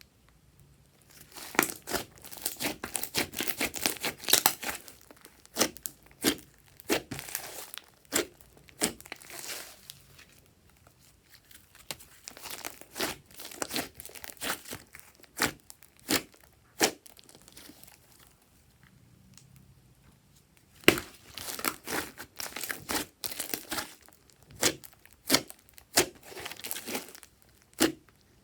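Glossy slime being squeezed and stretched by hand, giving sticky crackles and sharp clicking pops in bursts, with two short lulls.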